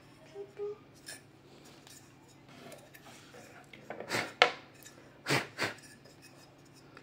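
Tweezers scraping and clicking against the parts of a dismantled Karcher WD 3 vacuum cleaner while dirt is picked out of it. Soft rubbing and scraping, then four sharp clicks in the second half.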